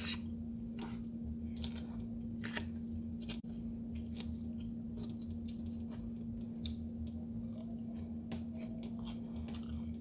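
Close-miked mouth sounds of a person chewing food, with irregular wet clicks and smacks, over a steady low hum.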